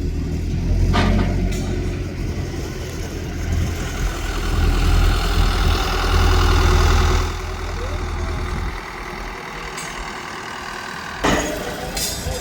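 A motor vehicle's engine running, a steady low rumble that drops away about nine seconds in; a sharp knock near the end.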